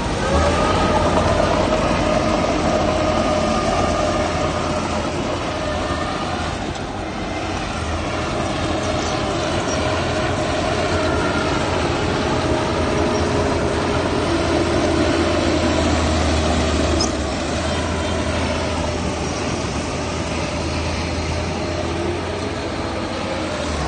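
Heavy diesel machinery running steadily under load, a low rumble with a droning whine on top and a slight drop in loudness about two-thirds of the way through.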